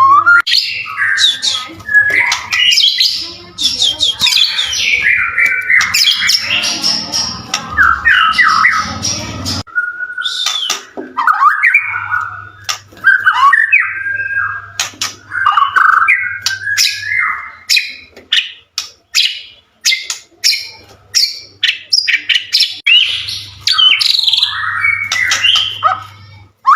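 White-rumped shama singing continuously: a fast, varied run of loud whistles, pitch glides, trills and sharp chattering notes. A faint low hum lies under much of the song.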